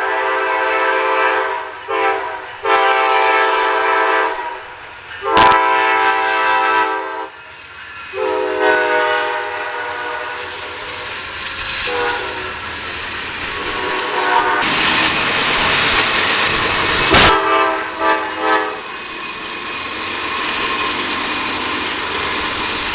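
Locomotive horn sounding a series of chord blasts, several of them long, the later ones weaker. From about halfway, the steady rushing rumble of a train rolling past takes over.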